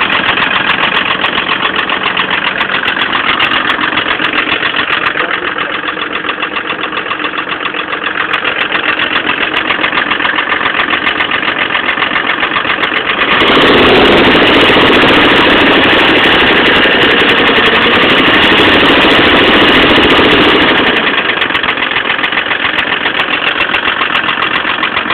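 Nissan LD28 2.8-litre straight-six diesel engine running with a rapid, even clatter, its engine reported as damaged. About halfway through it is run at higher revs for roughly seven seconds, then drops back to idle.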